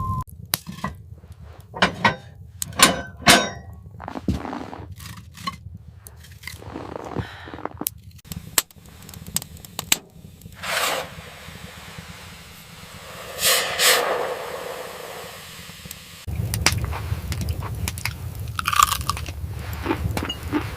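Irregular crunching and crackling, a quick cluster about two to three and a half seconds in and a longer crunch near the middle, over a low steady rumble that drops away at the start and comes back about two-thirds of the way through.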